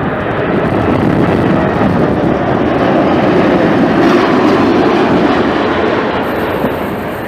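Jet airliner engines rumbling as a plane passes close by, building to a peak about four seconds in and then easing off.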